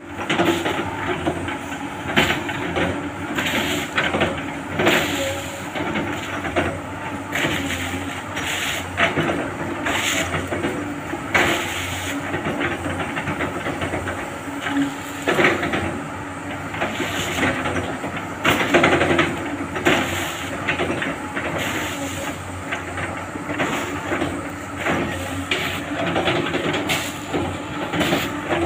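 Rhino REX215 crawler excavator working: its Cummins diesel engine runs under load, with hissing and frequent irregular knocks and clanks.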